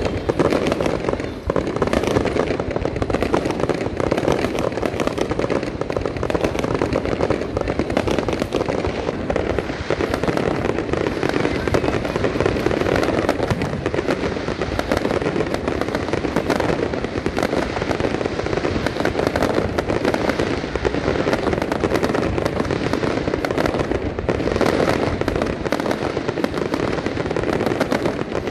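Aerial fireworks display going off without a break: a dense run of bangs and crackles from many shells bursting at once.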